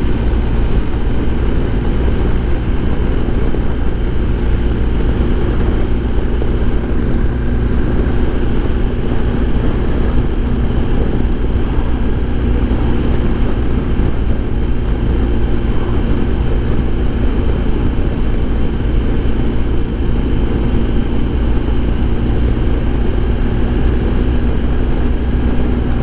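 Motorcycle riding at steady speed heard from inside the helmet: a constant rush of wind noise over the steady drone of the BMW R1250 GS Adventure's 1250 boxer twin, the engine running smoothly and nearly buried by the wind.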